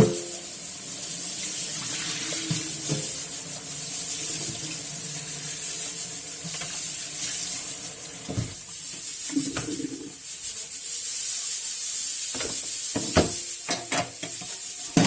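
Water running from a tap into a sink as a steady hiss, with several knocks and clatters of things handled in the sink in the second half.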